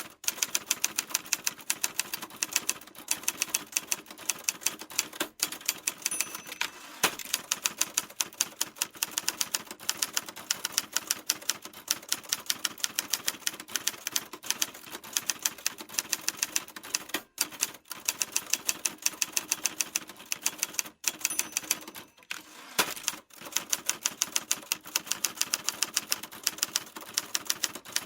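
Typewriter keys being struck in rapid, continuous typing, a quick stream of sharp clacks broken by a few brief pauses in the second half.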